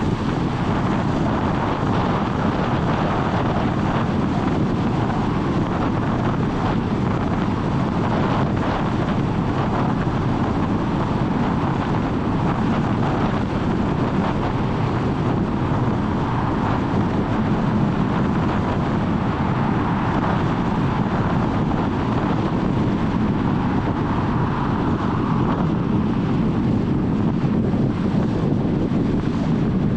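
A car travelling along the road: steady tyre and road noise mixed with wind across the microphone.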